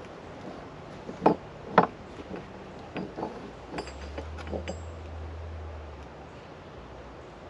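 Objects being handled and set down: two sharp knocks, then a run of lighter clinks and knocks, with a low hum for a couple of seconds in the middle.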